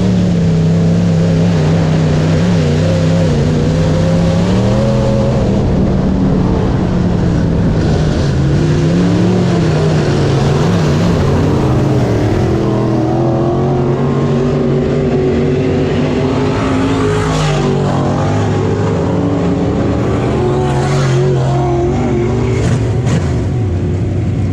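Race car engines running hard, their pitch rising and falling with the throttle.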